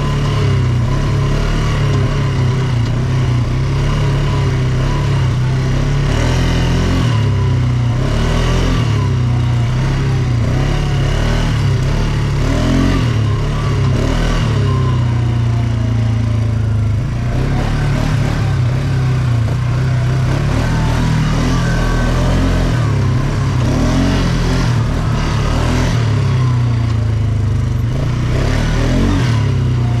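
ATV engine running steadily under load, its pitch rising and falling with the throttle.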